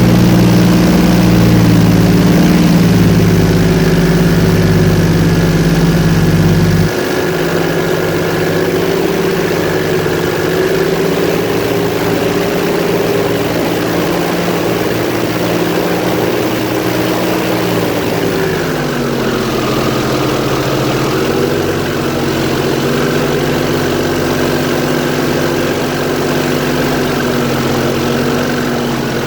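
Airboat engine and propeller running steadily at speed. About seven seconds in, the sound drops suddenly to a lower level, and a little past halfway the engine pitch steps down as it slows.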